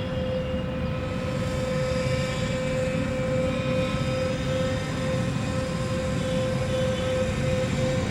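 A homemade RC airboat's electric airplane motor and propeller running with a steady, even whine, over a low rushing noise.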